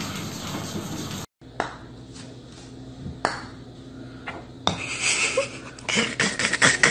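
Golf putter tapping golf balls on an indoor putting mat: single sharp clicks about a second and a half apart, then a quick run of clicks and knocks near the end. It opens with about a second of steady hiss that cuts off suddenly.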